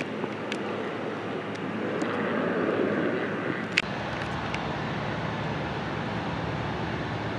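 Distant airplane engine noise, a steady rumble that swells slightly a couple of seconds in, with a sharp click about four seconds in.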